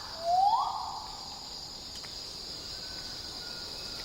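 A bird's whistled call sweeping upward, once near the start, over a steady high insect drone.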